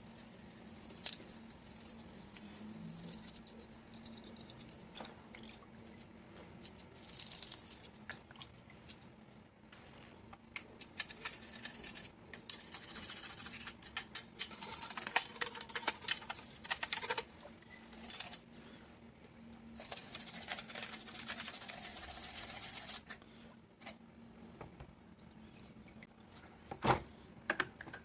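Small parts of a diecast model car being handled and cleaned by hand: scattered light clicks and taps, with two stretches of scratchy hissing noise lasting a few seconds each, the second ending just before a sharp knock near the end.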